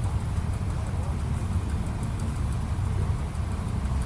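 A vintage engine running steadily, a continuous low rumble with a fast, uneven beat.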